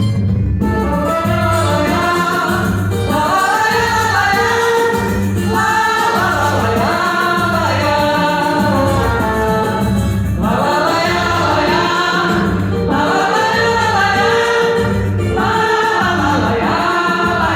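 Live samba band playing, with several voices singing a melody together over a steady beat.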